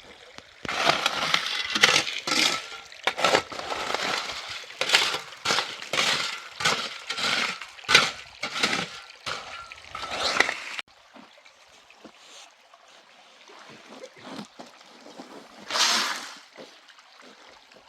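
Water splashing and sloshing in irregular bursts, then cutting off abruptly about eleven seconds in; after a quieter stretch comes one more brief splash near the end.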